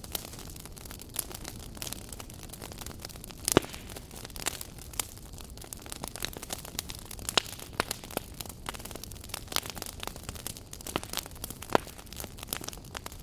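Wood fire in a fireplace crackling: irregular sharp pops and snaps over a soft steady hiss of flame, with one louder pop about three and a half seconds in.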